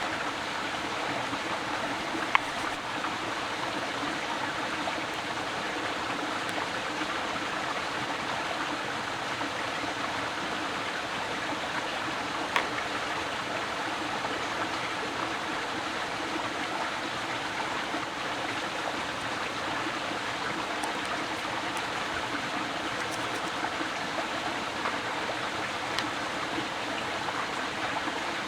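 Steady rushing of running water, with three brief sharp clicks.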